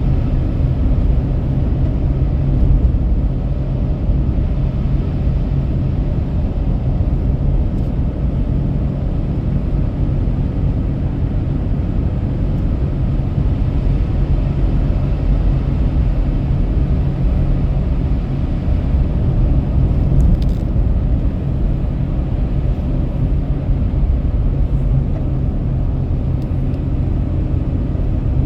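Steady low rumble of a car driving on a highway, heard inside the cabin: engine and tyre drone with a constant low hum, unchanging throughout.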